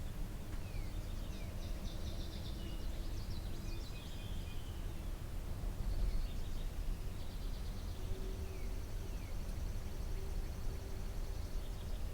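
Songbirds singing at intervals, with high trills and short falling whistles, over a steady low rumble of outdoor background noise.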